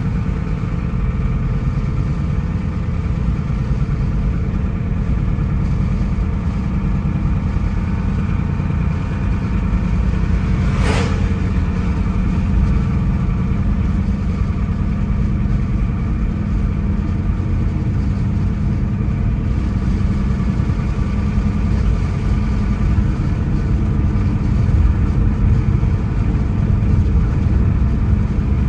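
A car being driven, giving a steady low rumble of engine and road noise. A single sharp click comes about eleven seconds in.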